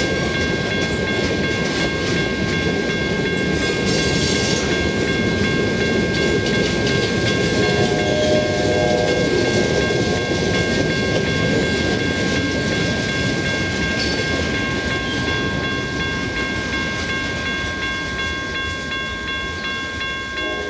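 Freight train rolling past on the rails: a steady rumble and clatter of wheels that eases slightly near the end as the last cars pull away, with steady high-pitched tones above it and a brief pitched tone about eight seconds in.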